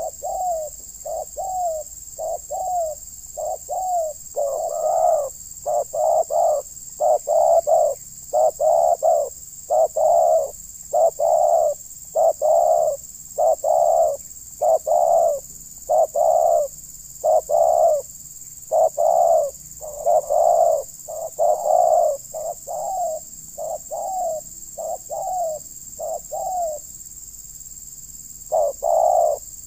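Spotted dove (terkukur) cooing in a long run of repeated coos. The first notes are short and falling; then come longer, fuller coos about one a second, with a brief pause near the end.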